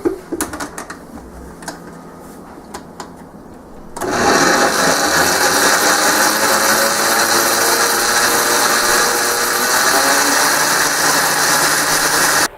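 A few clicks and knocks, then a countertop blender starts abruptly about four seconds in and runs steadily at full speed, blending a thick mix of sauces, vinaigrettes, a whole pickle and a raw egg. It cuts off suddenly near the end.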